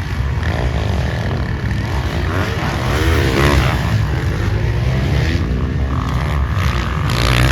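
Several motocross dirt bike engines revving up and down, their pitch rising and falling over and over.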